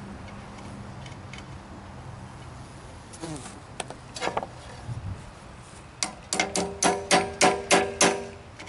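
Metal worked against metal: a quick run of sharp strokes, each with a ringing metallic tone, about three or four a second, starting about six seconds in. A faint low hum is heard before it.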